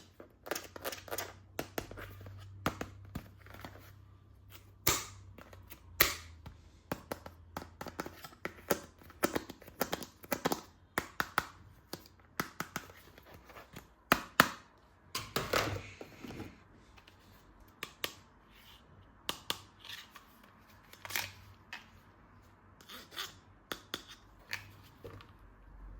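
Hands handling plastic toy guns and their packaging: an irregular run of plastic clicks, snaps and crinkles, with a few louder sharp clicks scattered through.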